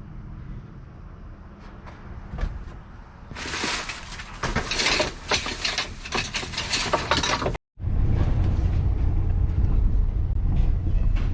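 Several seconds of rustling and clattering with many sharp clicks, like items being rummaged through and handled, which stops abruptly. After a short gap a vehicle engine runs with a steady low rumble.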